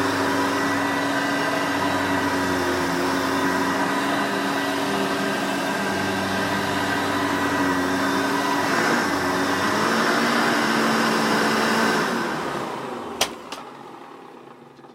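Hoover Elite 200 upright vacuum's 5-amp motor running steadily with a slightly wavering pitch, then switched off about twelve seconds in and winding down over a few seconds, with a sharp click shortly after it stops.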